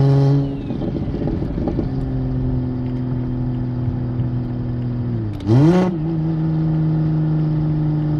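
Single-turbo BMW N54 3.0-litre straight-six running under light, off-boost throttle. Its note drops about half a second in, then holds steady. Just after five seconds the revs dip and then rise sharply in a brief loud blip, settling at a slightly higher steady note.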